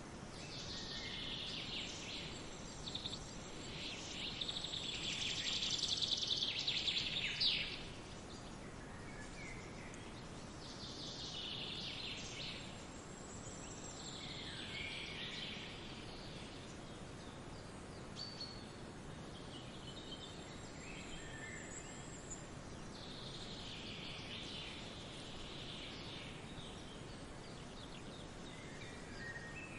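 Forest birds singing over a steady background rush. The songs come in high, busy phrases; the loudest stretch builds over the first few seconds and stops sharply at about seven and a half seconds, and shorter phrases follow every few seconds.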